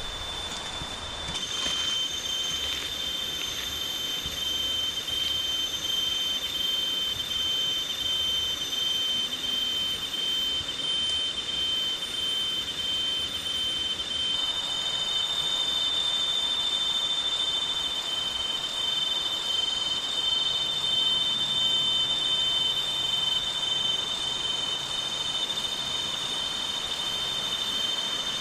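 A steady, high-pitched insect chorus, with a faint pulsing, drones over the even rush of waterfall water.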